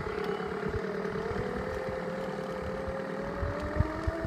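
A Toylander's diesel engine sound generator playing a simulated engine note whose pitch rises slowly, with scattered low knocks underneath.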